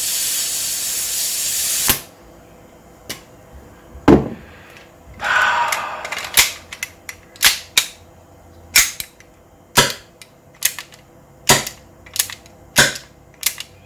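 A gas hiss for about two seconds, then a knock, a short hiss, and a string of sharp clicks about one a second from a Hi-Capa gas blowback pistol's hammer snapping forward on trigger pulls. The hammer, on a lighter spring, is not strong enough to push the valve in, so the gun does not fire.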